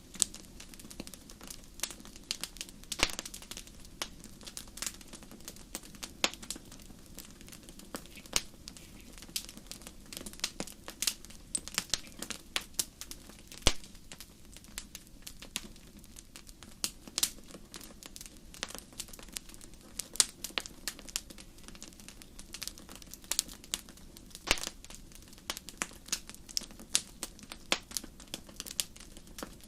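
Wood fire crackling in a fireplace: irregular sharp pops and snaps, a few a second and of varying loudness, over a steady low background.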